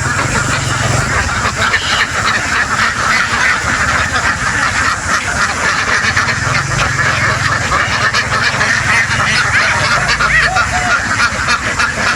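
A large flock of domestic ducks quacking continuously, many voices overlapping into a dense chatter over a steady low rumble.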